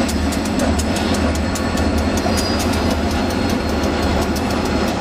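Freight train rolling by, its wheels clicking over rail joints in a quick steady rhythm over a continuous rumble.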